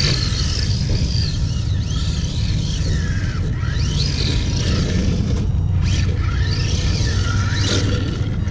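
Electric motor of a Redcat Thunder RC drift car whining, its pitch rising and falling again and again as the throttle is worked, over a steady low rumble.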